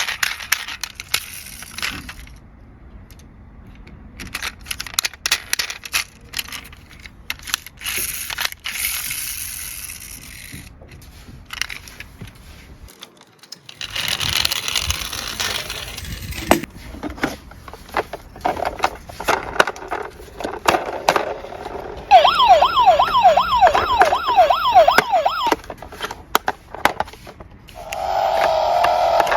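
Small die-cast toy cars clattering and rattling as they roll and knock down a slope, in many quick clicks and knocks. About two-thirds of the way through, a fast-warbling siren sounds for a few seconds.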